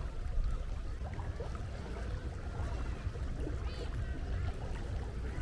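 Seaside ambience: a steady low rumble of water and wind, with faint scattered calls and one short high call about three and a half seconds in.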